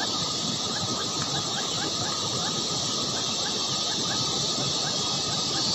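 Baby birds in the nest peeping: short, high chirps repeated about three to four times a second over a steady high hiss.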